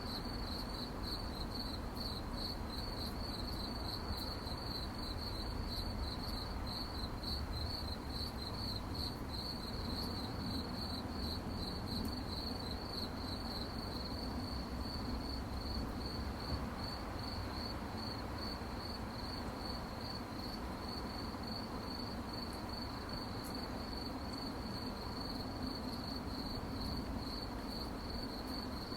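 Crickets chirping at night in a steady, rapidly pulsing high trill, over a low background hiss.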